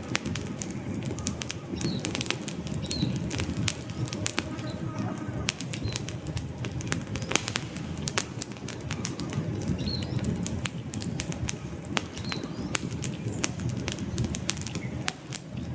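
Wood fire burning in a fireplace: a steady low flutter of flames with frequent sharp crackles and pops, and a faint short high squeak every few seconds.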